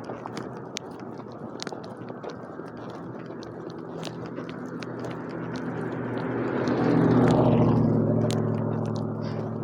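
A motor vehicle passing by: a low engine hum that grows louder over several seconds, peaks about seven seconds in, then fades. Small sharp clicks are scattered throughout.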